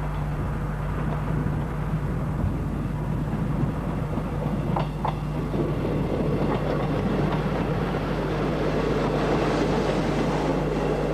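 A train moving along the track, its wheels clattering over the rail joints, the rush of noise building from about halfway through.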